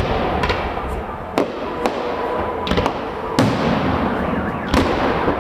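Fireworks display: aerial shells bursting overhead, a series of about eight sharp bangs at uneven intervals, some close together, over a continuous rumbling haze.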